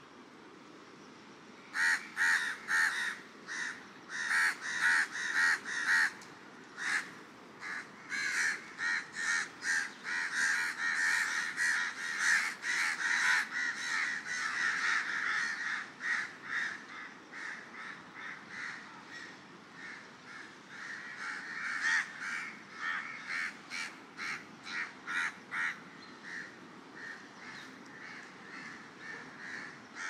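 Birds calling over and over, several short calls a second, starting about two seconds in and going on in dense runs, over a steady low wash of surf.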